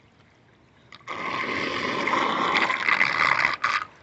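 Floodwater rushing and gurgling down a freshly cleared storm drain, starting suddenly about a second in and breaking off near the end.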